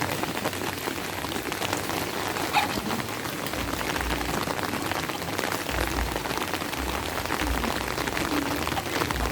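Steady rain falling, a dense hiss full of separate drop hits, with a few dull low rumbles in the second half.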